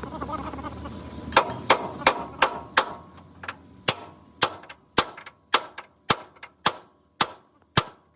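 Hammer striking steel in a run of about fourteen sharp blows, starting a little over a second in, quicker at first and then settling to about two a second.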